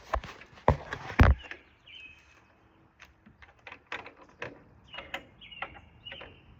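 Sliding door lock being worked into place: three hard knocks in the first second and a half, then lighter clicks and taps of the lock hardware.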